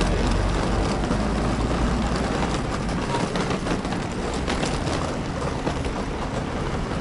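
Street traffic around a roundabout: a steady wash of vehicle noise with a low rumble that is heaviest in the first few seconds, then eases a little.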